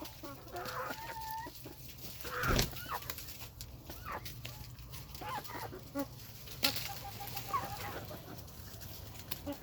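Chickens clucking and giving short calls at scattered moments, with a quick run of clucks near the end, and a couple of sharp taps in between.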